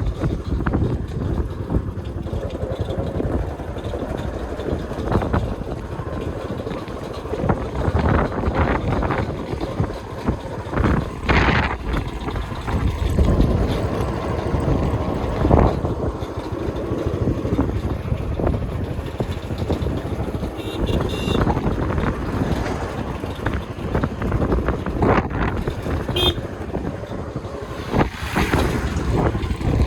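Wind buffeting the microphone over the steady rumble of a vehicle on the road, with uneven gusts and thumps.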